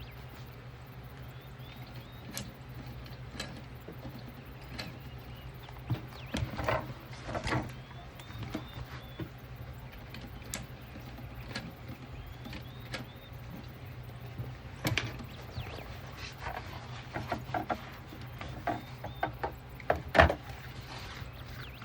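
Scattered clicks, taps and rustles of fabric and sewing clips being handled, with a sharper knock about two-thirds of the way in and several near the end, over a steady low hum. Faint bird chirps can be heard in the background.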